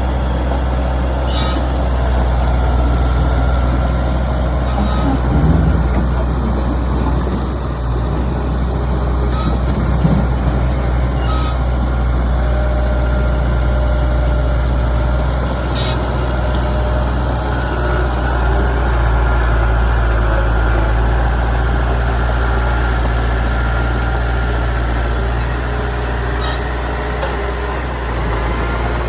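Heavy diesel engine of earthmoving machinery running steadily at a low, even pitch, with a few short sharp clanks now and then.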